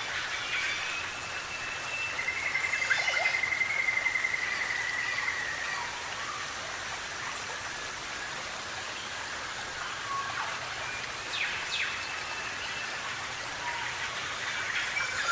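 Birds calling over a steady hiss of forest background. One bird gives a rapid, even-pitched trill lasting about three and a half seconds, starting about two seconds in. Another gives a few sharp, falling notes about eleven seconds in.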